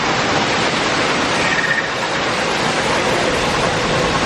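Steady, loud rushing noise with no clear rhythm, and a faint brief tone over it about a second and a half in.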